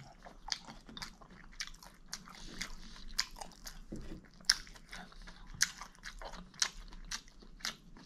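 A person chewing and biting crunchy fried food close to the microphone: wet chewing with crisp crackles, and sharper single crunches about once a second in the second half.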